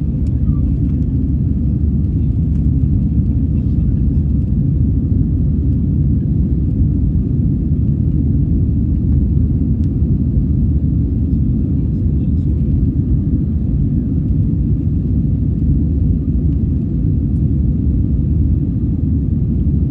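Airbus A320 jet engines and airflow, heard from inside the cabin as a steady low rumble during the climb after takeoff, with a faint steady hum over it.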